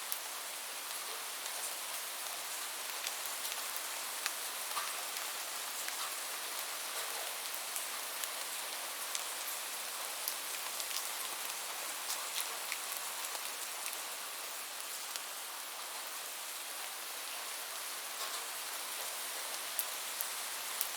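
Steady rain with a dense hiss and scattered individual drops tapping.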